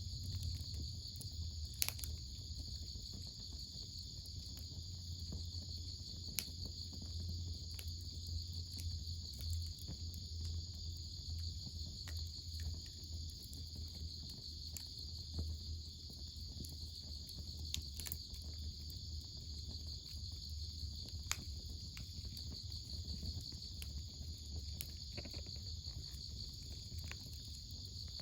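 Crickets chirring steadily, with the sharp pops of a crackling wood fire now and then over a low hum.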